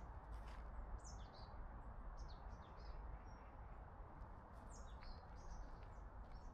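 Faint songbird calls: scattered short, high chirps, several falling quickly in pitch, over a steady low outdoor background hiss.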